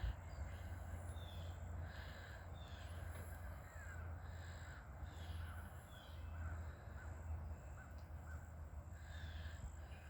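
Wild birds calling in the trees: short calls repeated every second or so, with some higher falling chirps, over a low steady rumble.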